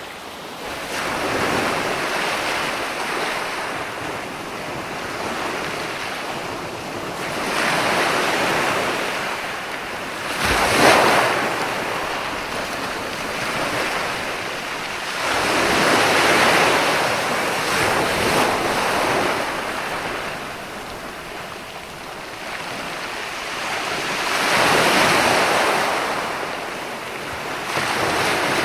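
Ocean surf: waves breaking and washing back, swelling and ebbing every few seconds, with one sharper, louder crash about eleven seconds in.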